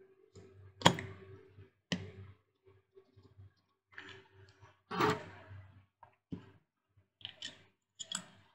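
Sharp clicks and knocks of small hard parts of a 9 W LED bulb being handled during a repair, about half a dozen scattered strokes, the loudest about five seconds in, over a faint steady hum.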